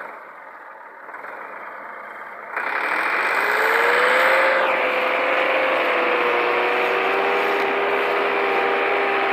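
Tractor engine that jumps in loudness about two and a half seconds in, its pitch rising as it revs up, then runs steadily at high revs.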